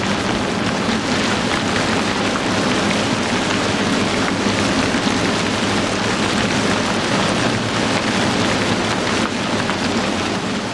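Heavy rain falling steadily, a dense unbroken hiss of raindrops.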